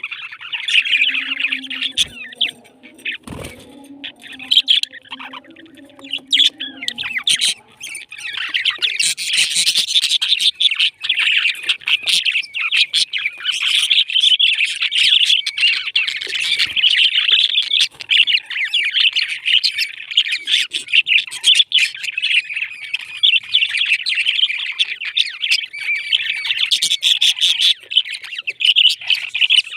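A flock of pet parrots chirping and chattering continuously in a dense, high-pitched stream. A faint low steady tone and a couple of knocks sit underneath during the first several seconds.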